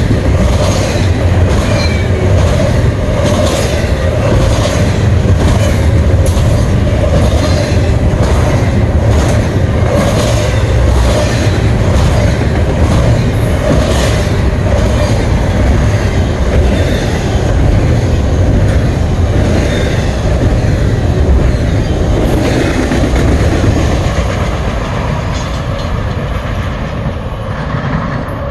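Norfolk Southern freight train rolling past, its wheels clicking steadily over the rail joints under a loud rumble. The sound begins to die away over the last few seconds.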